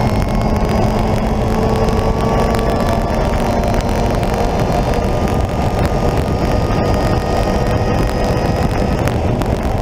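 Lotus Exige S engine driven hard, heard from inside the cabin under heavy road and wind noise; its pitch sags a little over the first few seconds, then climbs gently.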